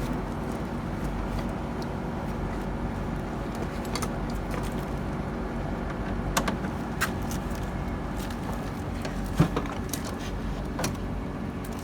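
A steady low mechanical hum with a few light clicks and taps scattered through it.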